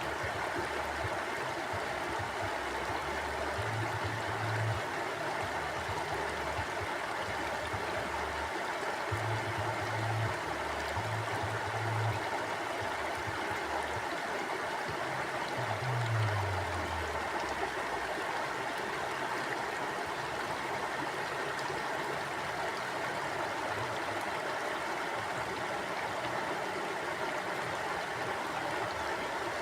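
Mountain stream flowing over rocks: a steady, even rush of water. A few brief low rumbles come and go in the first half, one of them falling in pitch.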